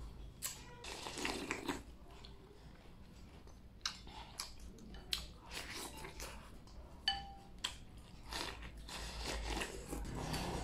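A person biting and chewing mouthfuls of stewed chicken eaten with chopsticks from a bowl, with a few short sharp clicks among the chewing.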